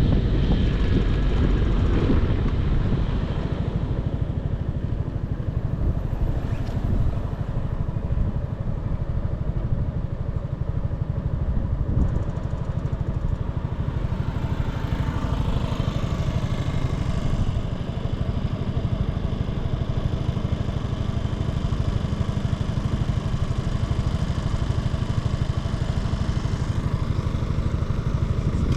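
Motorcycle engine running while riding, with wind rush on the microphone strongest in the first few seconds before the engine note settles and steadies.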